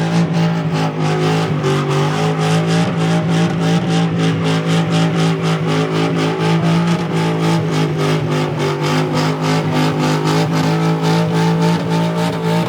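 Car engine held at steady high revs, its note pulsing evenly about three times a second.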